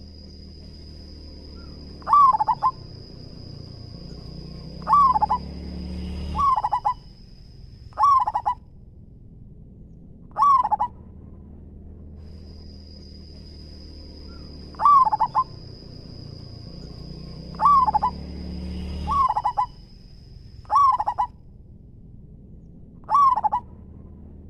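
Zebra dove (perkutut) cooing: ten short calls, one every two to three seconds. A steady high-pitched whine in the background comes and goes.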